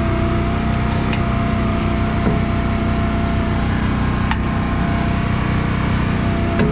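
Heavy diesel engine running steadily, with a few faint clicks.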